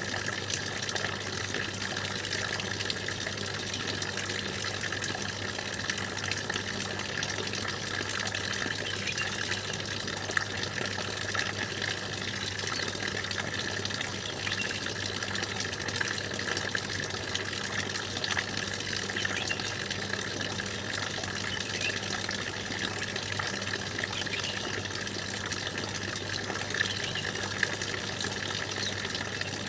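Stream water rushing steadily, with a few faint, brief bird chirps over it.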